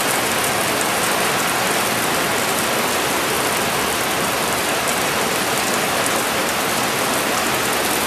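Heavy rain pouring down steadily, a dense unbroken hiss of drops hitting the ground and surfaces.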